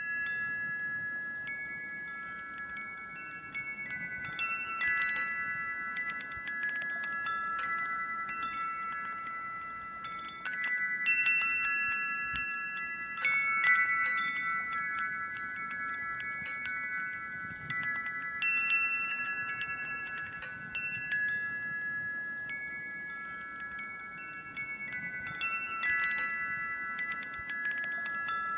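Wind chimes ringing, struck irregularly so that several sustained tones overlap and keep renewing.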